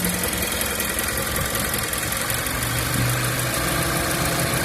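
Mazda 2 engine running steadily at idle, heard from the engine bay, where the owner is chasing an abnormal noise.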